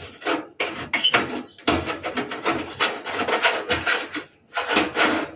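Repeated rubbing and scraping strokes of hands working the gas water heater's thermocouple and its mounting.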